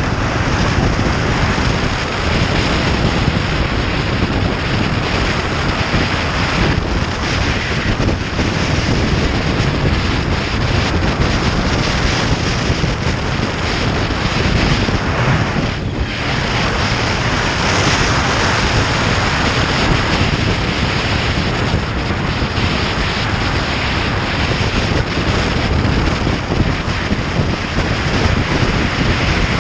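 Loud, steady wind rush over the microphone of a moving motorcycle, with the bike's running and road noise blended in, easing briefly about halfway through.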